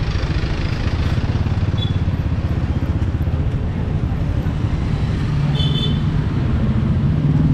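Motorbike engine running steadily while riding, its note climbing from about five seconds in as it speeds up.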